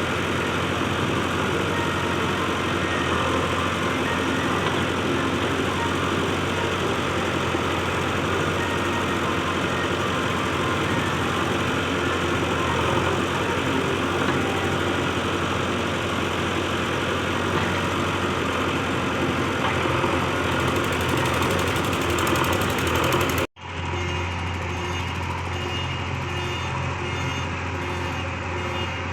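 Heavy diesel engine of an earthmoving machine running steadily at work. About three-quarters of the way through, the sound drops out for an instant and comes back slightly quieter with a changed tone.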